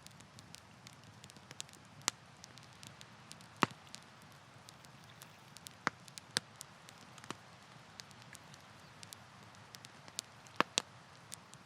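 Wood campfire crackling: irregular sharp pops and snaps, a few of them louder, over a soft steady hiss of burning.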